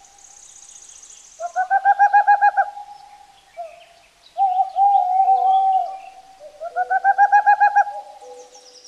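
An owl calling: two rapidly quavering, trilled hoots about a second long, with a steadier held hoot between them. Faint chirps of small birds sound behind.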